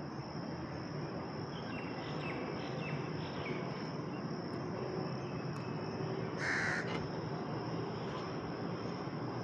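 A crow cawing: one short, harsh call about two-thirds of the way through, with a few fainter calls earlier. Under it runs a steady outdoor background with a thin, constant high whine.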